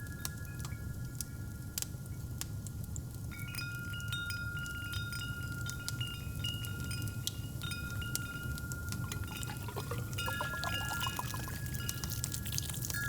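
Wind chimes ringing over a steadily crackling fireplace. From about nine and a half seconds in, liquid is poured into a cup, the pitch rising as it fills.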